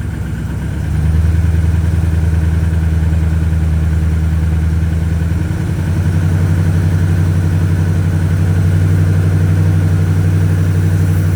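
Truck V8 engine running on seven cylinders, misfiring with cylinder 7's injector wire unplugged for a noid-light test. The engine note steps up about a second in as it is given throttle, dips briefly around five seconds in, then holds steady.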